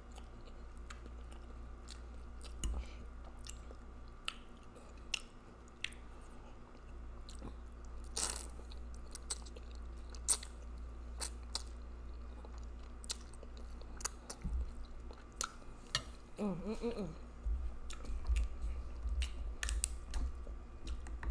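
Close-miked mouth sounds of eating spaghetti with meat sauce: chewing and slurping of noodles, with wet clicks and smacks scattered throughout. There is a louder noisy slurp about eight seconds in, and a short hum of the voice about three-quarters through.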